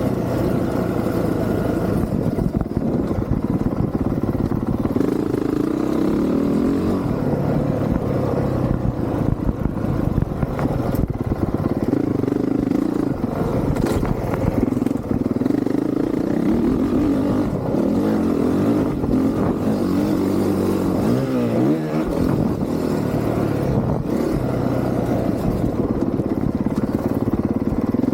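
Honda CRF450R's single-cylinder four-stroke engine being ridden hard on a motocross track, the revs climbing and dropping over and over as the rider accelerates, shifts and backs off.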